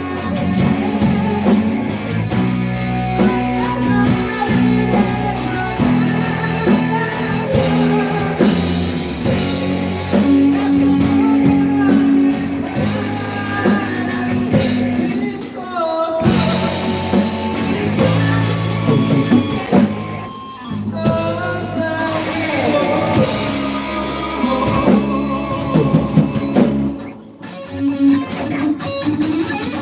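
Rock band playing live in a rehearsal room: drum kit, electric guitar and bass under a sung lead vocal, in a rock ballad. The music eases briefly twice, about two-thirds of the way through and near the end.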